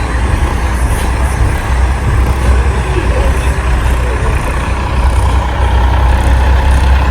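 Big-rig diesel trucks running in a convoy, a steady heavy low rumble of engines and road noise with no distinct single event.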